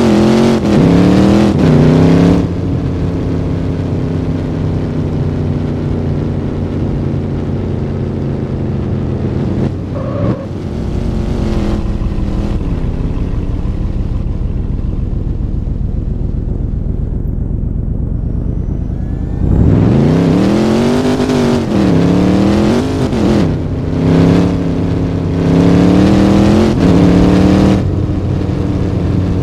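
Car engine revved in short blips, settling back between them to a steady lower run. There is a burst of revs at the start, one quick blip about ten seconds in, then a series of revs from about twenty seconds in.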